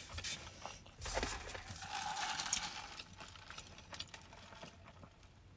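Close-up eating sounds: chewing and mouth clicks on a mouthful of chicken sandwich, then a sip through a plastic straw. Busier in the first three seconds, then faint.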